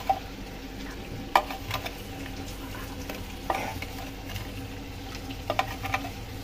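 Chicken-and-tomato masala sizzling as it fries in a pot on the stove, with a few sharp clinks of metal spread through.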